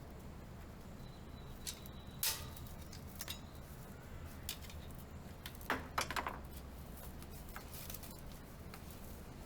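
Scattered light clicks and clinks of small metal parts and tools being handled during bicycle disassembly, over a steady low hum. The sharpest click comes about two seconds in with a short metallic ring, and a quick run of clicks comes just before the middle.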